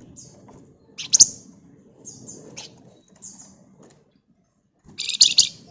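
Flamboyan songbird giving short, high, scratchy chattering bursts: a loud one about a second in, a few softer chirps after it, and a dense, loud burst near the end.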